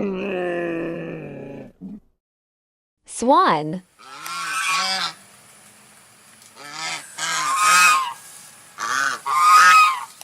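A camel groaning, one long call falling in pitch, ending about two seconds in. After a short spoken word, swans call: several groups of quick, repeated honks.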